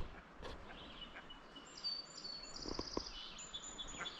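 A songbird singing: a run of high, repeated chirps with a short rapid trill, from about halfway through, over faint outdoor background hiss. A couple of soft knocks sound under the song.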